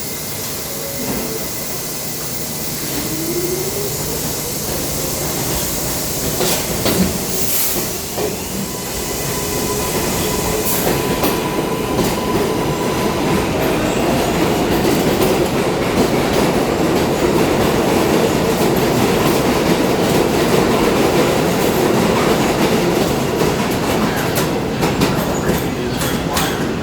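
New York City subway train running through the elevated station, growing steadily louder as it approaches. Its wheels clatter over the rail joints with sharp clicks near the end, and a thin steady squeal runs for a few seconds midway.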